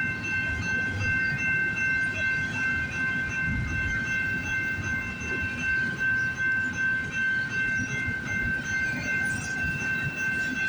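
Cars of a long intermodal freight train rolling past, a steady low rumble with irregular clatter of wheels on the rails, and a steady high-pitched ringing tone held throughout.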